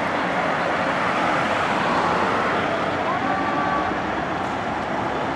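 Steady roar of road vehicle noise with no breaks, with a brief faint tone about three seconds in.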